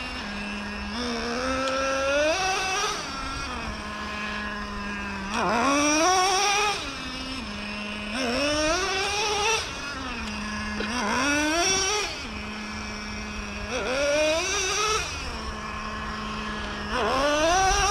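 Traxxas Revo 3.3 nitro RC truck's two-stroke glow engine idling between about six full-throttle bursts. Each burst is a couple of seconds of rising pitch that drops back to idle. This is break-in running in short full-throttle pulls, kept in first gear.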